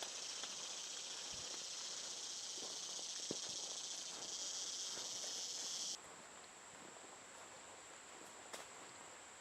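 Insects buzzing: an even high-pitched drone that cuts off suddenly about six seconds in, over a steady thin, very high insect trill that carries on.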